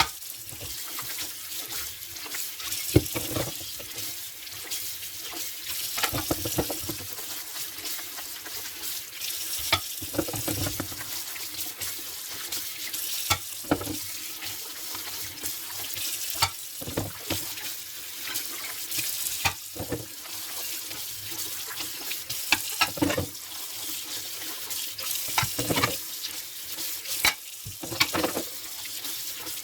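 Dishes being washed by hand at a sink: a steady hiss of running tap water, with frequent irregular clinks and knocks of dishes handled under it.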